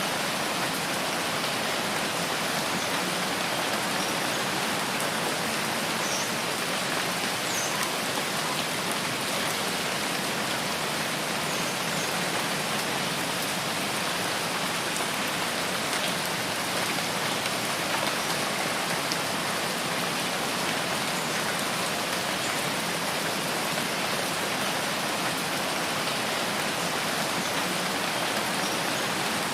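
Steady rainfall on a rain forest canopy, an even hiss of drops with no let-up, with a few faint short high chirps scattered through it.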